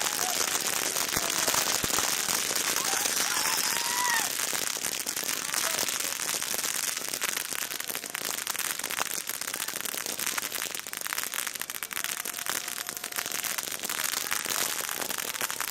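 Fireworks crackling: a dense, unbroken stream of small rapid pops, loudest in the first few seconds and easing a little later on.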